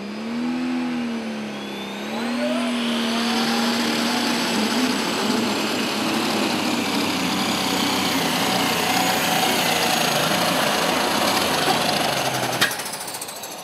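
Pulling tractor engine run hard under load: it revs up with a rising whine over the first few seconds, then runs flat out. A sharp crack comes near the end, and the engine sound drops away.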